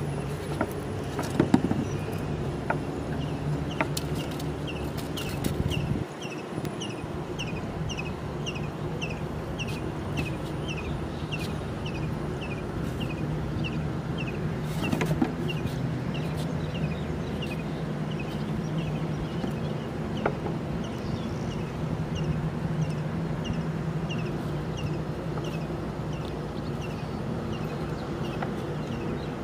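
A bird repeating a short, falling chirp about twice a second, over a steady low motor hum. A few sharp clicks come through, the loudest about a second and a half in and again about halfway.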